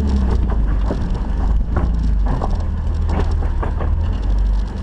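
Off-road Jeep's engine running steadily at low revs, with irregular knocks and rattles over it.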